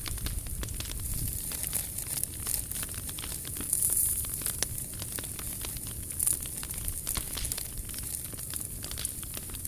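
Wood fire burning, with a steady hiss and frequent small crackles and pops; a few louder pops come about four seconds in and again a little after six seconds.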